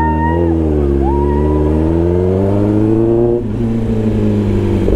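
Kawasaki ZX-10R's 998 cc inline-four engine pulling under acceleration while riding: its pitch climbs steadily, falls sharply about three and a half seconds in as the rider shifts up, then runs steady again.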